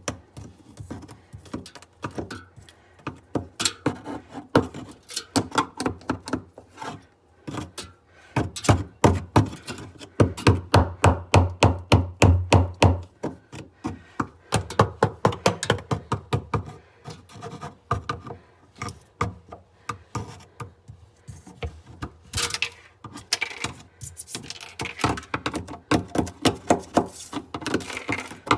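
Rapid, repeated knocking and scraping of a tool on the thick ice in a refrigerator's freezer compartment, several strokes a second, heaviest about a third of the way in. The ice has built up because a failed defrost system let the drain freeze shut.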